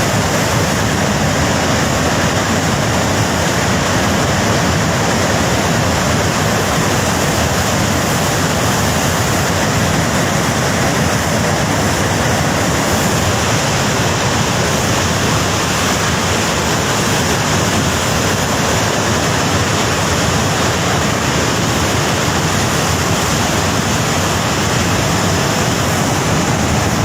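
Floodwater from a breached dam rushing in a torrent: a loud, steady, even rush of water.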